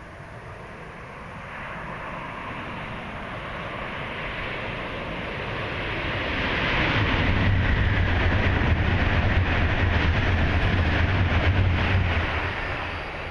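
E5 series Shinkansen train passing at speed: a rushing noise that builds, stays loudest for about five seconds with a deep hum underneath, then fades near the end.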